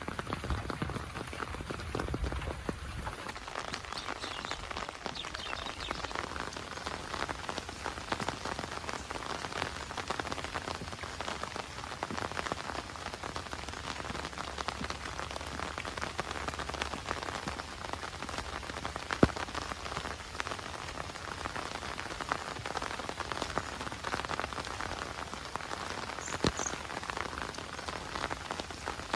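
Heavy monsoon rain falling steadily, a dense patter of drops, with a single sharp louder drop tap about two-thirds of the way through.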